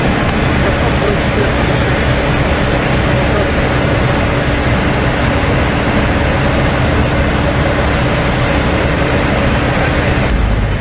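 Steady, loud engine and propeller drone of a light piston airplane in flight, heard from inside the cabin. A steady hum runs under it, and one held tone drops out shortly before the end.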